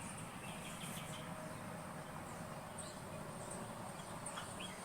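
Quiet outdoor ambience with faint, scattered high-pitched bird chirps.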